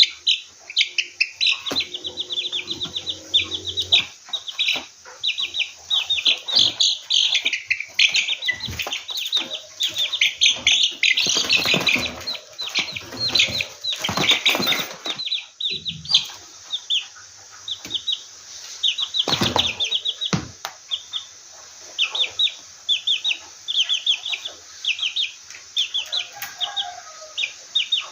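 A bird chirping rapidly and without a break, short high notes several a second, with scuffling, knocks and wing-flapping mixed in, loudest around the middle.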